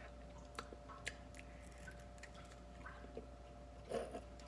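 A person chewing a mouthful of air-fried chicken, faintly, with scattered small clicks, and one short, louder sound about four seconds in as the chicken is pulled apart by hand.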